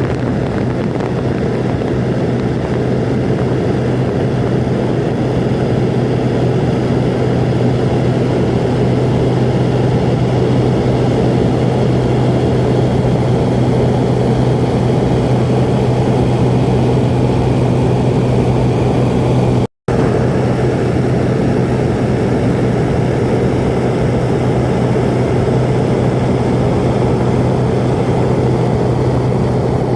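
Small seaplane's engine and propeller droning steadily in flight, a constant low hum with no change in pitch; it cuts out for an instant about two-thirds of the way through.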